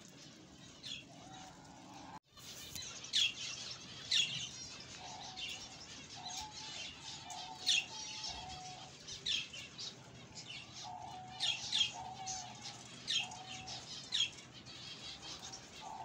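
Small birds chirping over and over in quick, short downward chirps, mixed with lower, level whistled notes. The sound breaks off for an instant about two seconds in.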